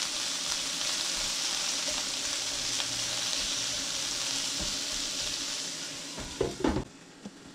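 Pork meatballs and bok choy stems sizzling as they fry in a skillet, stirred with a spatula. About six and a half seconds in, a glass lid is set on the pan with a couple of knocks, and the sizzling drops to a much quieter hiss.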